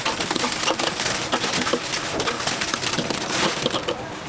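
Dry breading flour being crunched as chicken pieces are tossed and pressed in it by hand: a dense, uneven crackle of small crunches.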